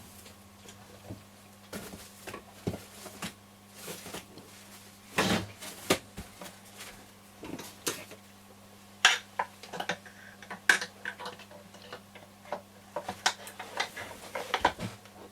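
Scattered clicks, taps and clatters of tools and parts being handled on a workbench, in irregular bursts, over a faint steady electrical hum.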